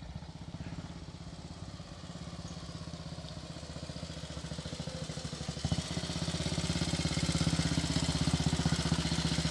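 1943 Matchless G3L's single-cylinder engine running with evenly spaced firing beats, getting steadily louder and stepping up in level about six seconds in as the bike approaches.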